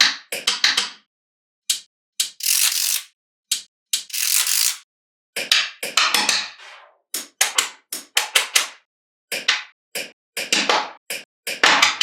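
Small magnetic balls clicking and snapping together in quick clusters of sharp clicks. Twice, at about two and four seconds in, a longer rattle sounds as a bunch of balls slide and clatter together.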